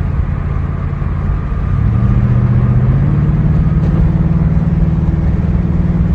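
Car engine running while driving, heard from inside the cabin; the engine note rises in two steps, about two and three seconds in, then holds steady as the car accelerates.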